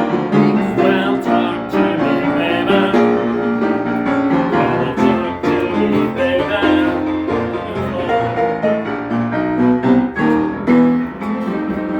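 Piano music playing, a busy run of shifting notes throughout.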